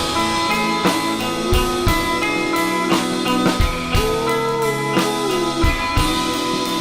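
A live rock band playing an instrumental passage without vocals: a drum kit keeps a steady beat of about two hits a second under sustained electric guitar notes. About four seconds in, one long note slides up and back down in pitch.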